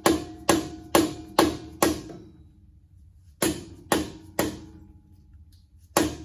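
A small sledgehammer strikes metal on the tractor's front end with ringing blows: five at about two a second, then a pause, three more, and a final blow near the end.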